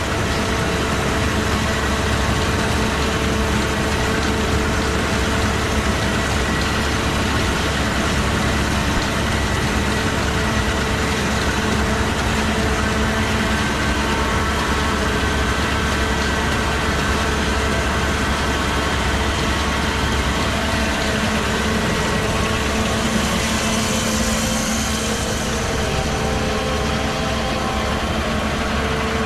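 Tractor engine running steadily while it drives the baler, a constant engine drone with a few steady pitched hums.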